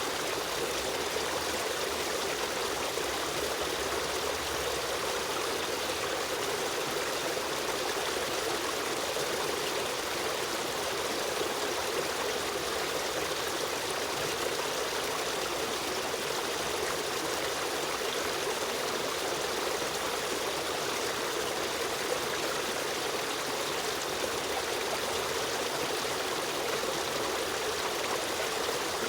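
Stream water running and trickling steadily, a constant rushing without breaks.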